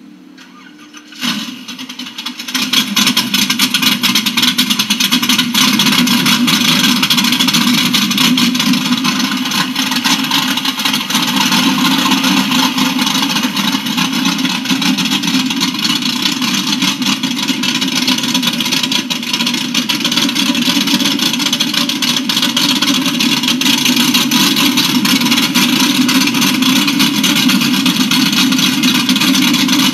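Drag car's 383 cubic-inch small-block stroker V8 (350 block with a 400 crankshaft) firing up about two seconds in, then running loud and steady.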